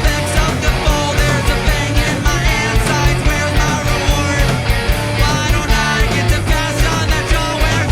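Live punk-rock band playing: distorted electric guitars and bass over a steady, driving drum beat.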